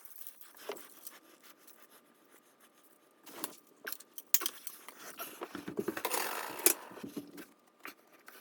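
Small metal clinks, clicks and scrapes from handling tools and bicycle parts, sparse at first and busier about five to seven seconds in.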